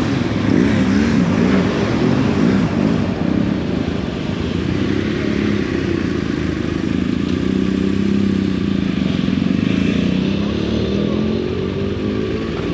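Motorcycle engine running under way, its pitch wavering at first, holding steady through the middle, then rising near the end as it accelerates.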